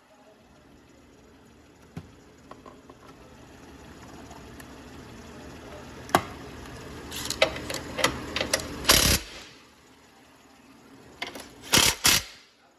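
Mechanic's tools at work on an engine: a steady mechanical noise that grows louder over several seconds, broken by sharp clicks and clanks, with the loudest knocks about three quarters of the way through and again near the end.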